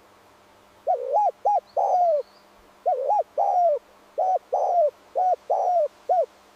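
A bird calling in three phrases of short, clear, rise-and-fall notes, each phrase two to four notes long, with faint high chirps from other birds behind.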